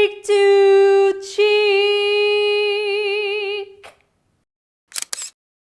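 A woman singing unaccompanied, holding long notes with vibrato; the last note trails off about four seconds in. About a second later come two short noises.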